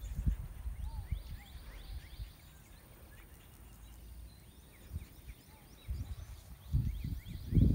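Small birds chirping over and over in the background, short falling calls repeated throughout, over irregular low rumbling that swells just after the start and again near the end.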